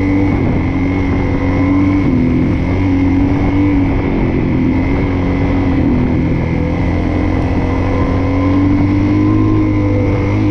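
Suzuki DR-Z400S single-cylinder four-stroke engine running steadily while the bike is ridden, its pitch rising and falling gently with the throttle.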